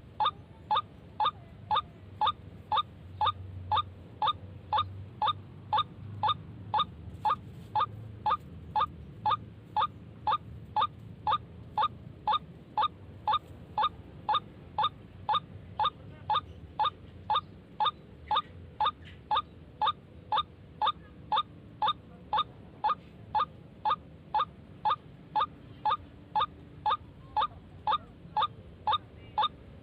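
White-breasted waterhen call used as a trapping lure: one short note repeated about twice a second, evenly spaced and unchanging, as from a looped recording.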